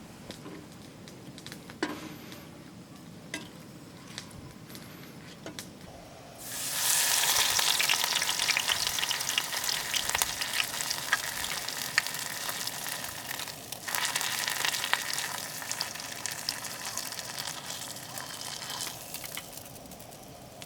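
A few quiet clicks of handling, then food goes into a hot pan and sizzles loudly, full of crackles and pops, dipping briefly partway through and easing off near the end.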